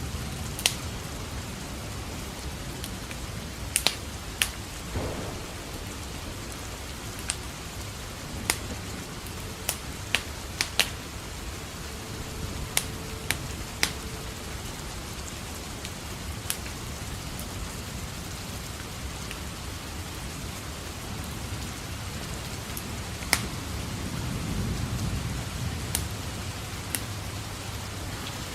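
Steady rain with a crackling wood fire: sharp pops scattered irregularly throughout. A low rumble of thunder swells and fades about three-quarters of the way in.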